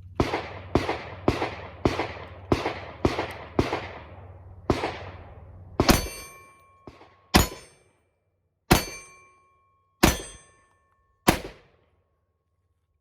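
Thirteen shots from an AR pistol: a quick string of eight about half a second apart, then five slower, spaced shots. Each of the last five is followed by a short metallic ring.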